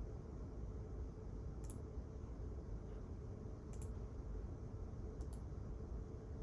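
Library room tone: a steady low hum with a faint even tone, broken by three short, sharp double clicks about two seconds apart.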